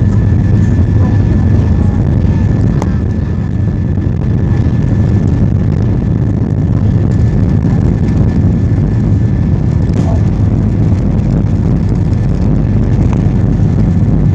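Airliner cabin noise during takeoff or climb: a loud, steady low rumble of the jet engines and airflow, with a thin steady whine above it and a few faint clicks.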